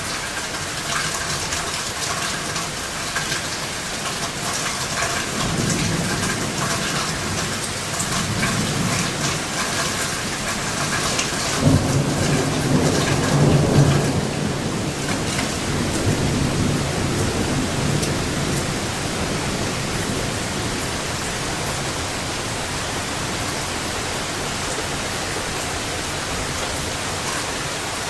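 Steady rain falling hard while thunder rumbles in from about five seconds. It cracks sharply a little before the middle, is loudest for a couple of seconds, then rolls away over the next several seconds, leaving only the rain.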